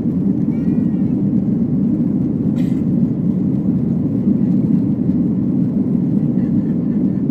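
Steady low drone of an airliner's cabin in flight, with a faint short high sound about half a second in and a single click a little later.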